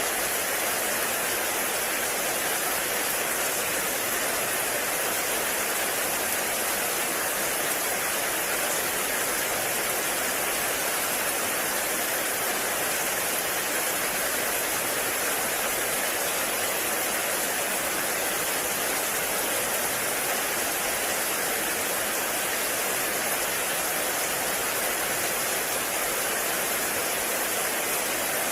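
Heavy rain falling steadily in a forest, a dense even hiss with no separate drops standing out.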